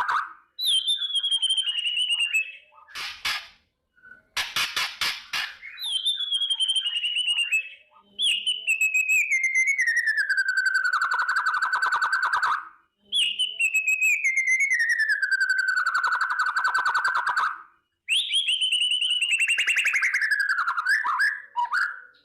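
White-rumped shama (murai batu) giving its 'kretekan' rattle: a run of rapid, buzzy rattling phrases, several of them long and sliding steadily down in pitch, broken by two short bursts of sharp clicks a few seconds in.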